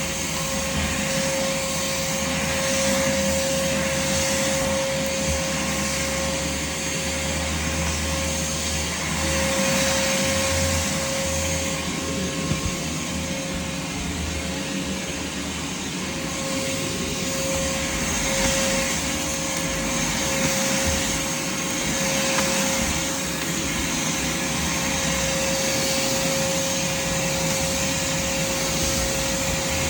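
Craftsman shop vac running steadily while vacuuming, a constant motor whine over the rush of air, swelling and easing a little as it is worked.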